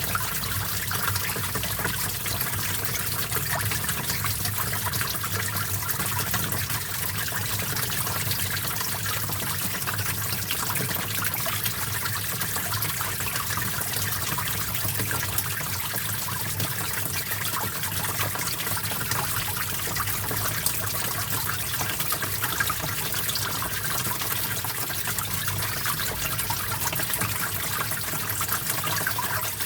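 Small stream of water flowing and trickling over rocks, a steady bubbling, splashing rush.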